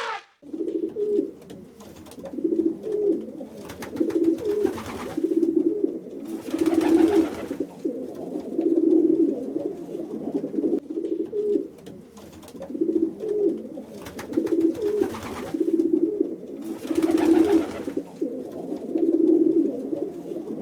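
Pigeons cooing: low, repeated coos in short phrases throughout, with a few brief bursts of rustling noise.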